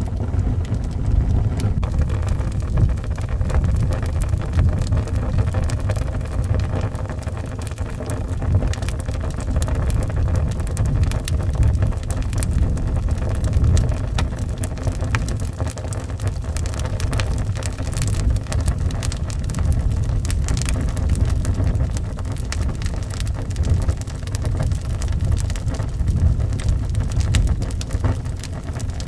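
Wood fire crackling, with many sharp little snaps scattered throughout, over a steady low rumble of howling wind.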